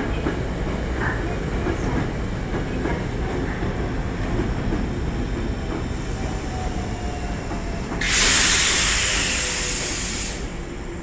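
Train running with a steady low rumble and faint clicks. About eight seconds in, a loud hiss of air lasting a couple of seconds cuts in and stops suddenly.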